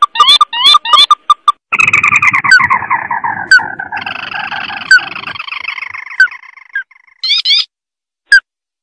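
Crake (burung tikusan mata merah) calling, from a lure recording. A run of short upswept notes comes first. About two seconds in, a long chattering trill starts and slides gradually lower in pitch for about five seconds. It ends with a quick burst of rising notes and one last single note.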